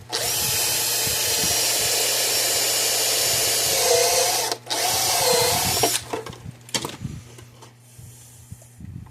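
Handheld power drill boring a hole through the enclosure wall for the power cord: one steady run of about four and a half seconds, a brief stop, then a second shorter run with the motor pitch wavering under load. Light handling clicks and taps follow.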